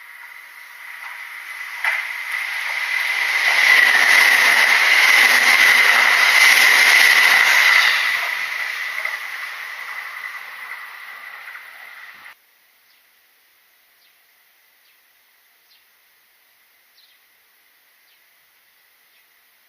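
Kintetsu electric train passing at speed: the running noise swells over the first few seconds, holds, then fades away. It cuts off abruptly about twelve seconds in, leaving only a faint quiet background with a few small ticks.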